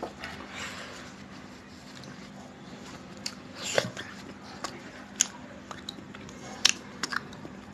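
A person chewing a last mouthful, with scattered soft mouth clicks and a few short lip-smacks.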